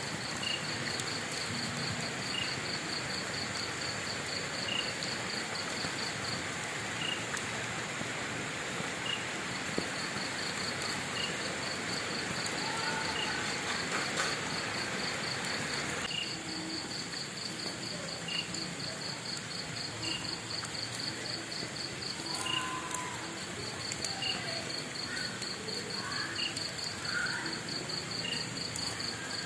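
Insects chirping in a fast, even, high trill that breaks off twice, with a slower chirp about once a second and a steady hiss underneath.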